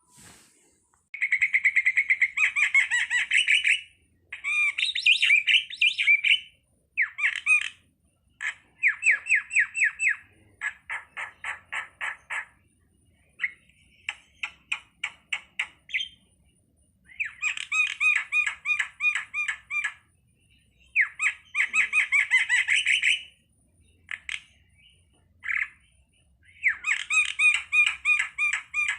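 A starling (Indonesian jalak) singing in repeated bursts of fast chattering notes, each burst one to three seconds long, with short pauses between.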